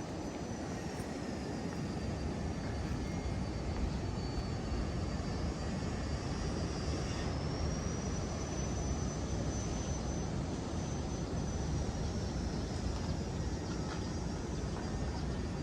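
Steady low roar of Indian Ocean surf, with a faint thin high whine that slowly wavers in pitch above it.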